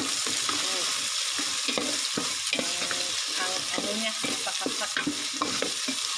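Onions, garlic and ginger frying in oil with red chili paste in a pot, sizzling steadily while a wooden spatula stirs and scrapes through them in many short strokes.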